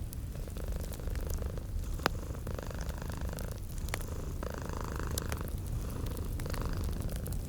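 A cat purring steadily and close, with a wood fire crackling and popping over it. A sharp pop about two seconds in is the loudest sound.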